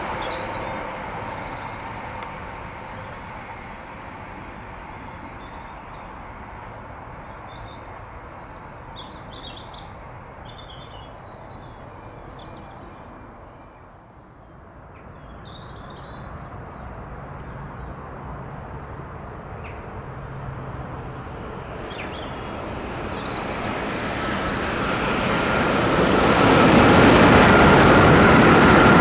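High-speed passenger trains on High Speed 1: a rush of one train fades away over the first few seconds, birds chirp in the lull, then another train's rush builds steadily from about halfway and is at its loudest as it passes near the end.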